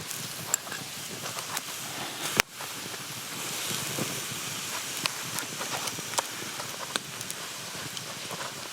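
Wood campfire crackling, with irregular small pops over a steady hiss and one sharp snap about two and a half seconds in.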